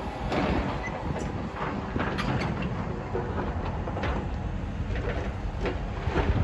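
Heavy demolition machinery running with a steady low rumble, with scattered sharp knocks and clanks every second or so.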